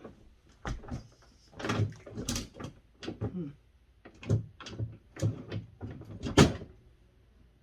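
Irregular knocks and clunks of a refrigerator's bottom freezer door being worked loose and lifted off its mount, with the loudest knock about six seconds in.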